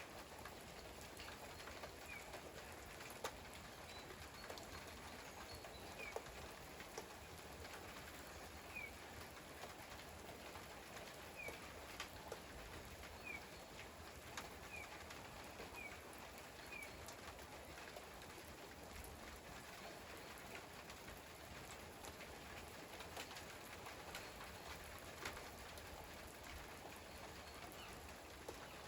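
Steady rain falling, with individual drops ticking sharply now and then. A bird gives a string of short, high, falling chirps through the first half.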